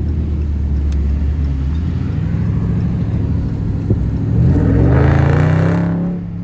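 Car engine running with a steady low drone, then revving up with a rising pitch about four seconds in, and dropping away shortly before the end.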